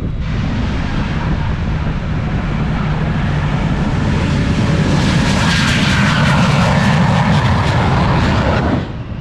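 Hot Streak jet truck and a stunt plane racing: a loud engine roar that swells about five seconds in, with a tone slowly falling in pitch at its loudest. It cuts off abruptly near the end.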